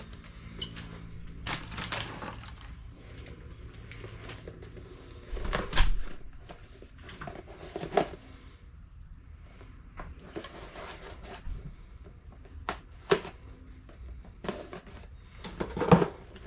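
Irregular knocks and clatter of parts and tools being handled on a workbench, the loudest about six and sixteen seconds in.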